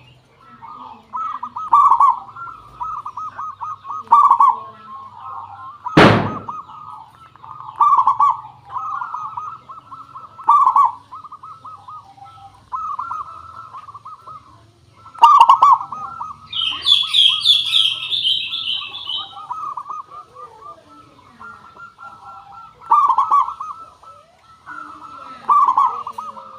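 Zebra dove (perkutut) song: phrases of quick, rippling coos repeated every two to three seconds. A single sharp click sounds about six seconds in, and a small bird's higher chirping cuts in briefly partway through.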